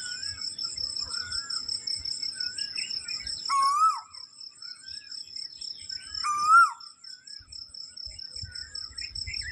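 Birds calling in short wavering whistled notes over a steady, high, pulsing insect trill. Two louder calls, each a dipping whistle, stand out about three and a half and six and a half seconds in.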